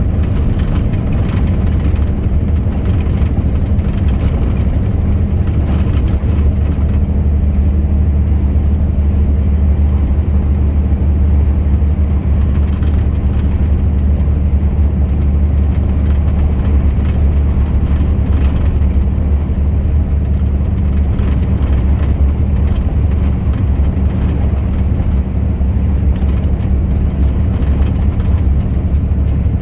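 A truck on the move, its engine and road noise making a steady low drone that holds the same pitch throughout.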